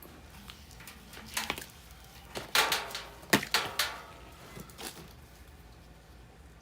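Short bursts of clicks and rasps from hands-on work securing the furnace blower motor's wiring, the loudest cluster in the middle.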